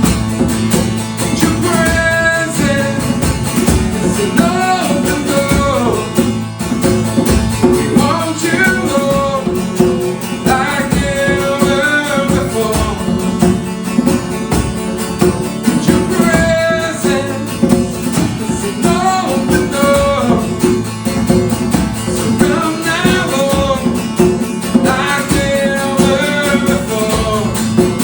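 A worship song performed live: a voice singing a melody over strummed acoustic guitar.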